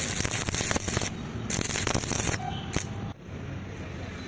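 Stick-welding arc crackling on steel square tube, its hiss switching on and off in bursts, then stopping abruptly about three seconds in as the arc is broken.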